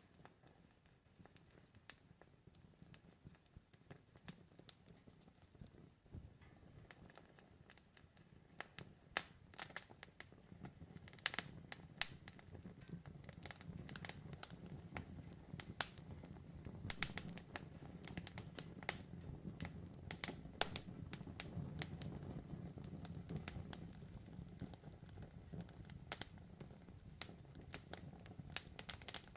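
Campfire burning: wood crackling and popping in sharp, irregular snaps over a low, steady rumble of flames that grows a little louder about ten seconds in.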